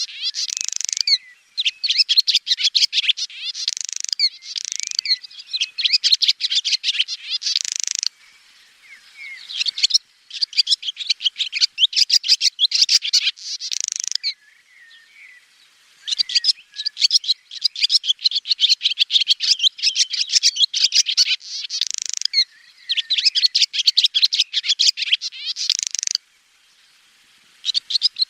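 Swallow song: rapid, high-pitched twittering and chattering delivered in bouts of several seconds, broken by three short pauses.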